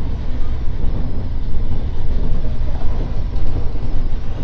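E231 series electric commuter train running between stations, heard from inside the car: a steady low rumble of wheels on the rails.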